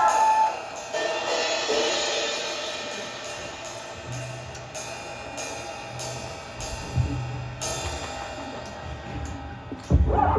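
Live band music: a quiet intro of repeated cymbal strikes and held guitar tones, with a low bass note entering about four seconds in, before the full band comes in loudly near the end.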